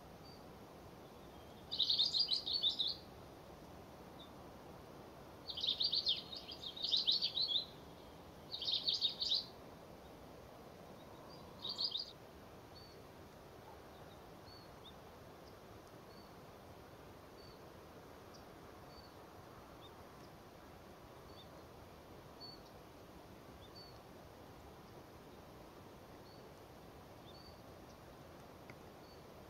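Long-tailed rosefinch calls: four short bursts of rapid, high trilling notes in the first twelve seconds, the second one the longest. After that there are only faint, scattered single chirps.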